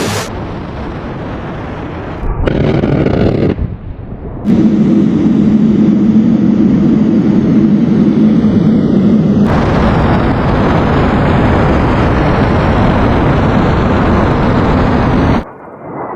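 Loud sustained explosive roar in several segments, each starting and stopping abruptly, with a heavy low rumble in the middle stretch.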